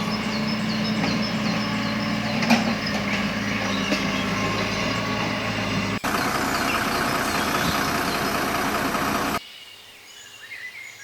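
Truck engine running steadily, with high chirps above it. About six seconds in it cuts abruptly to a louder, rougher engine noise, which stops suddenly a few seconds later and leaves a much quieter stretch.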